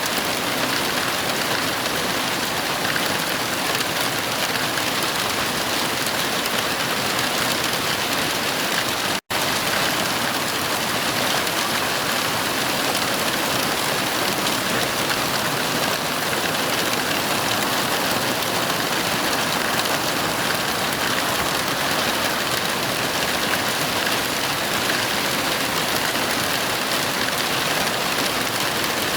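Heavy rain falling steadily, an even hiss with no thunder heard. The sound cuts out for an instant about nine seconds in, then carries on unchanged.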